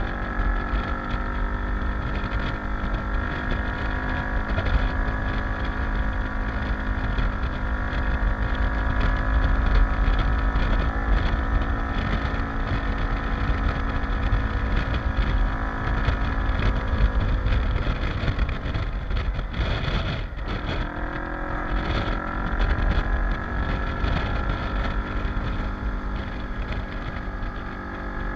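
Kawasaki KLE motorcycle engine running at steady revs on the move, with wind rushing over the microphone. About two-thirds of the way through, the engine note drops away for a couple of seconds, then picks up again at steady revs.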